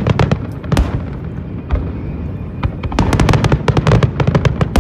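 Fireworks display: rapid volleys of sharp bangs and crackles over a low rumble, in a dense flurry at the start and another from about three seconds in.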